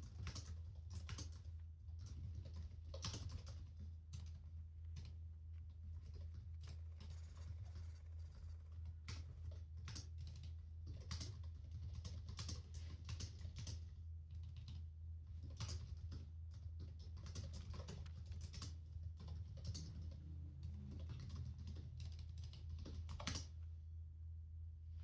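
Keyboard typing: irregular runs of key clicks that stop shortly before the end, over a steady low hum.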